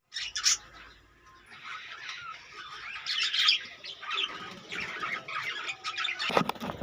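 Budgerigars chirping and chattering in short, irregular bursts, with a short sharp noise near the end.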